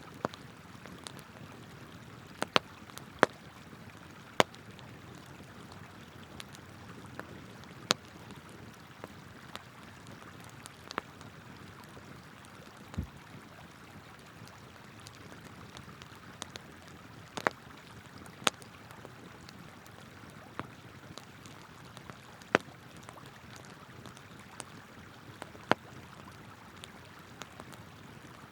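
Wood campfire crackling, with sharp irregular pops every second or few, over the steady rush of a flowing river. One duller knock comes near the middle.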